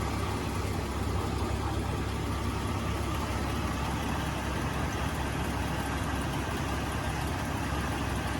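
Jeep Cherokee XJ's engine running steadily at an even pitch, with no revving. It cuts off abruptly at the very end.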